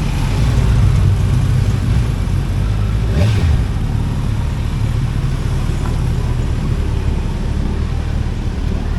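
Motorcycle engine running steadily, with a short louder surge about three seconds in.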